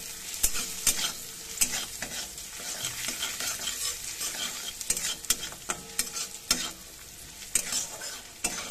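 Sliced onions frying in mustard oil in a kadai, sizzling steadily, while a metal spatula stirs and scrapes them against the pan, with irregular clicks and scrapes of metal on metal.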